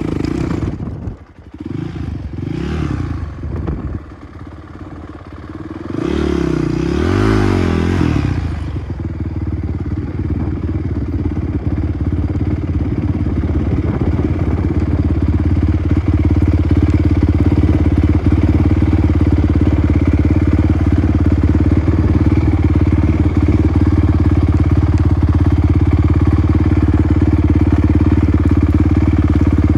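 Dirt bike engine revving up and down in short blips during the first eight seconds or so, then running at a steady speed that grows louder until about halfway through and holds there.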